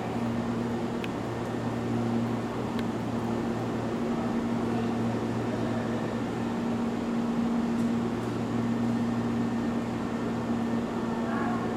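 Hankyu 3300 series electric train standing at the platform, its air-conditioning and onboard electrical equipment giving a steady low hum with a fan-like whoosh.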